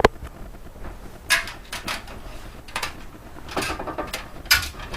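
Someone climbing a loft ladder: a sharp click at the start, then irregular scuffs, knocks and creaks of steps on the rungs about once a second.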